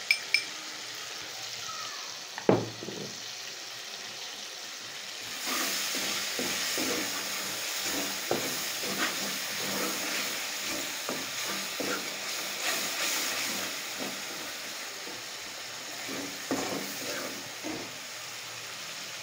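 Tomato, onion and spice masala frying in ghee in an aluminium pot, sizzling steadily. There is a sharp knock about two and a half seconds in. From about five seconds in, a steel ladle stirs and scrapes the pan with a louder sizzle until near the end.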